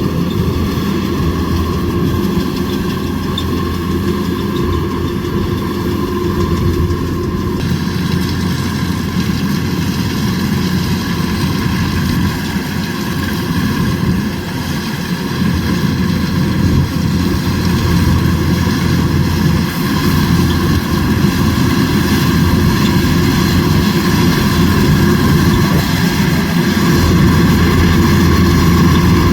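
Kubota DC105X combine harvester's diesel engine running steadily with its machinery; the sound gets fuller and brighter about eight seconds in and louder near the end.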